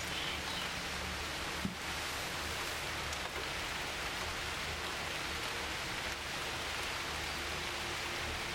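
Heavy rain falling steadily, an even dense hiss, with one brief thump a little under two seconds in.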